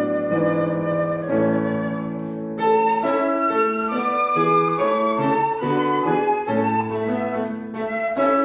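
Live classical music: a piano with a melody instrument playing held, sustained notes, the melody growing louder and higher about two and a half seconds in.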